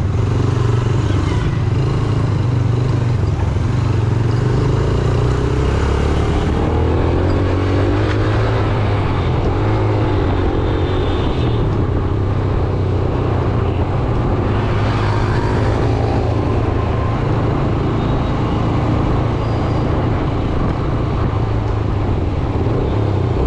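Yamaha YBR 125G's single-cylinder four-stroke engine running steadily on the move, with wind and surrounding traffic noise. The engine pitch wavers up and down between about seven and eleven seconds in.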